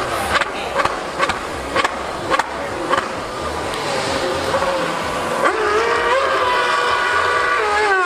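Racing engine revving up sharply about five and a half seconds in and held at high revs, its pitch stepping up and down. Before that, a run of sharp cracks comes about twice a second.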